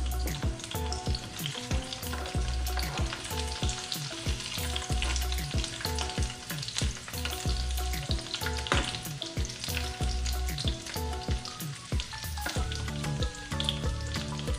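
Food sizzling and crackling in hot oil in a frying pan, stirred now and then with a spatula.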